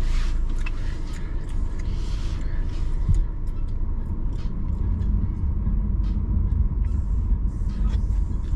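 Car cabin noise: a steady low rumble from the running car, with faint scattered ticks and a single low thump about three seconds in.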